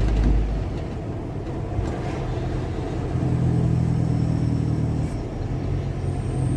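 Car driving along, its engine running with a steady low rumble over road noise.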